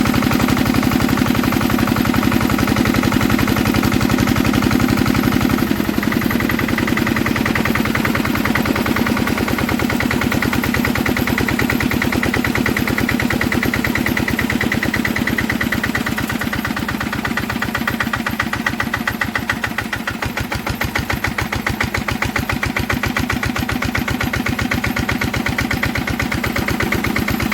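Old Enfield stationary diesel engine running steadily, each firing stroke distinct. Its note changes about six seconds in, and it eases slightly a bit past the middle before picking up again.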